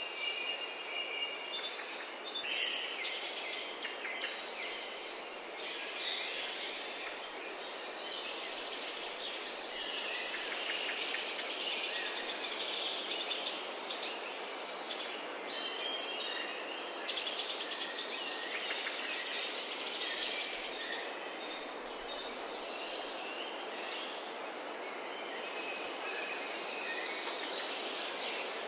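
Birds chirping and singing in short, irregular calls every second or two over a steady hiss.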